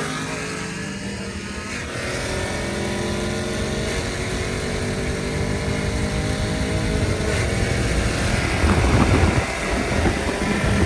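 A street-race vehicle's engine at a hard, sustained pull, its pitch climbing steadily for several seconds. It turns into a louder, rougher rumble near the end.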